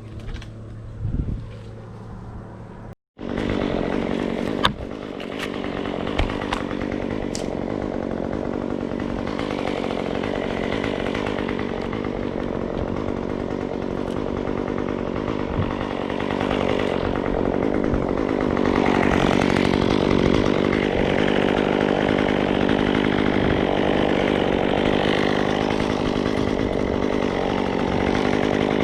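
Chainsaw idling for a few seconds, then, after a short break, running loud and steady at high speed, a little louder from about two-thirds of the way through.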